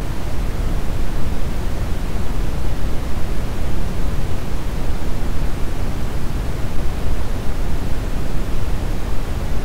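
Brown noise: steady, even rumbling hiss, heaviest in the bass and falling away toward the treble, with no change over the whole stretch.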